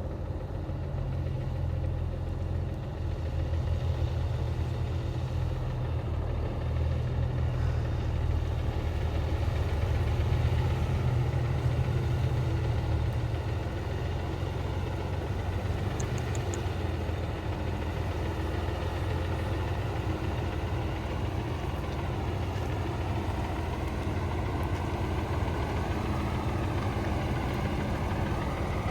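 Engine of a 1975 truck idling steadily.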